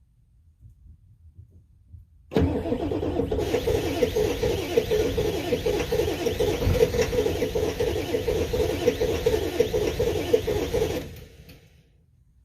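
Straight-piped 7.3 turbo diesel cranking over on a cold start with bad glow plugs at 10 °F. It starts suddenly about two seconds in, runs rhythmically for about nine seconds, then dies away without settling into an idle.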